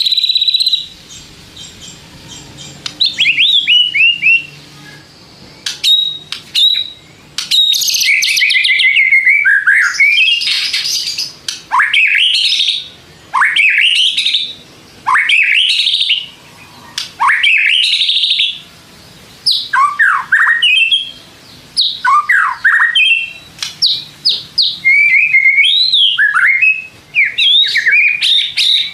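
White-rumped shama singing: loud, varied whistled phrases that swoop up and down, delivered in bursts with short pauses between them, including a stretch of rapid chattering notes.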